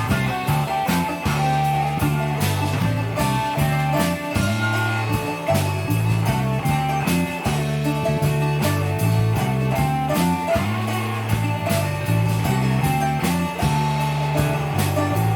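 A live rock band playing an instrumental passage with no singing. An electric bass walks a repeating line, drums keep a steady beat with regular cymbal strikes, and guitars play melodic lines over it.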